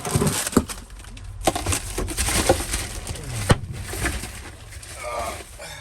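Rustling of packets and a bag while food tins are handled, with a few sharp knocks of tins being set down.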